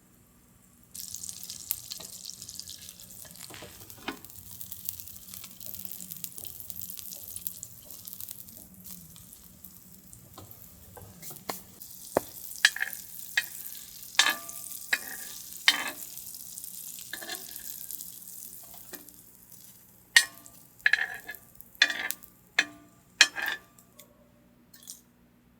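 Food sizzling in a hot pan, starting suddenly about a second in, with a utensil stirring and clinking against the pan. The sizzle dies away near the end, leaving a run of sharp clinks.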